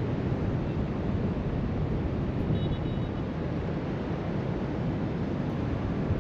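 Wind rushing over the microphone on top of the steady wash of surf breaking along the shore below, a constant low rumbling noise.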